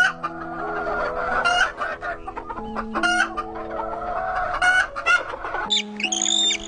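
Chickens clucking and a rooster crowing over a simple background tune of held notes. Near the end, a higher-pitched bird's calls start.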